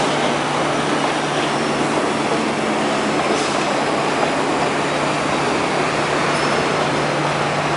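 MTR Tsuen Wan line electric train running, a steady rumble of wheels and traction motors with a constant low hum as it pulls away.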